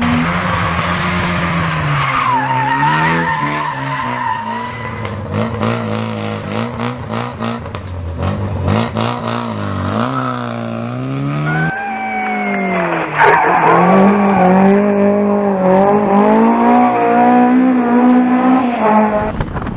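Rally cars sliding sideways through corners: engines revving up and falling back as they change gear, with skidding tyres. The sound changes abruptly to another car about twelve seconds in.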